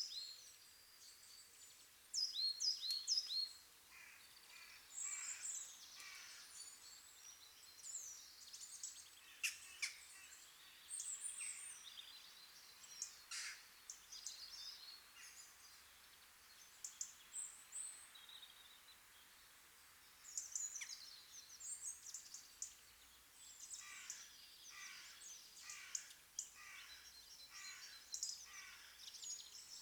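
Birds chirping and calling: many short, high chirps scattered throughout, with a run of quick repeated notes near the end, over a faint steady background.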